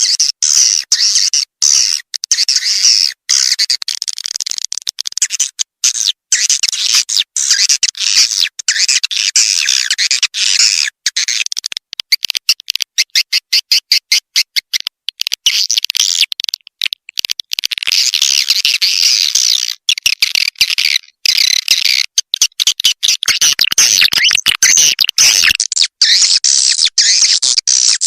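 Swiftlet call recording used to lure swiftlets to a nesting house: dense, high-pitched twittering and chirping of swiftlets, chopped into rapid stuttering pulses with abrupt short gaps.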